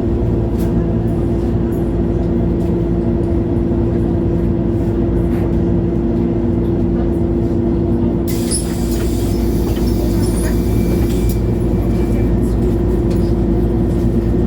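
MAN Lion's City G articulated city bus's diesel engine running steadily with a low hum. About eight seconds in, a hiss of compressed air starts and lasts about three seconds.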